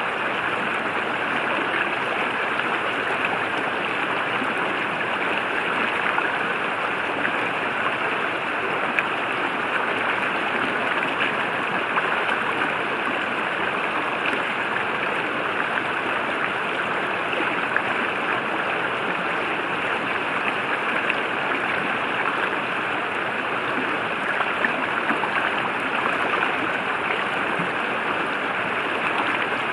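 A river flowing and rushing over rocks, a steady, unbroken wash of water.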